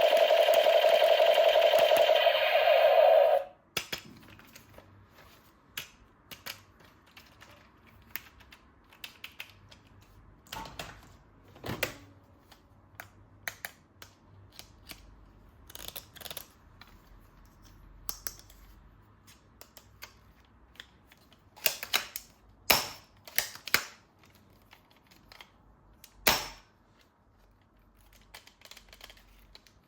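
Scattered clicks and knocks of hard plastic toy parts being handled, with a few louder snaps around the twenty-second mark. Before them, a loud, steady electronic sound with several held tones cuts off suddenly about three and a half seconds in.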